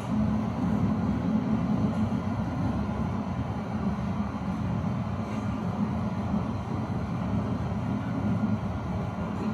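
Tram running along its rails between stops: a steady rolling rumble with a low electric hum that fades in and out.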